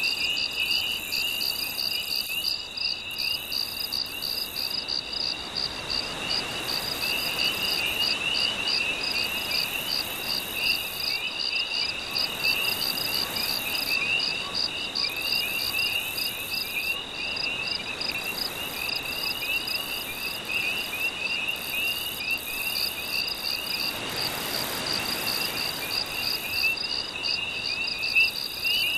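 Night chorus of calling animals: a fast, steady pulsing trill and a layer of rapid chirps keep going throughout. Under them the soft wash of gentle sea waves swells up twice, about a third of the way in and again near the end.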